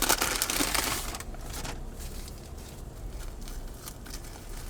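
Paper sandwich wrapper crinkling and crackling as it is unwrapped, loudest for about the first second and then dropping to a fainter rustle.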